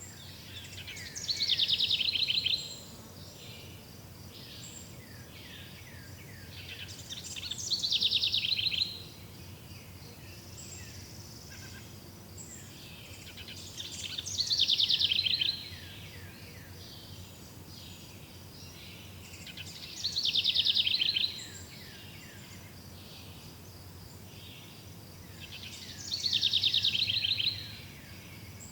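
A songbird repeating a fast trilling phrase five times, about every six seconds, each lasting a second or so, among fainter chirps from other birds or insects over a steady low background rumble.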